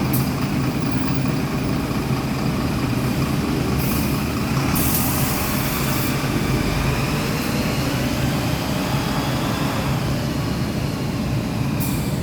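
Mitsubishi Fuso Aerostar city bus's diesel engine idling steadily, with short hisses of air about four and five seconds in and again near the end.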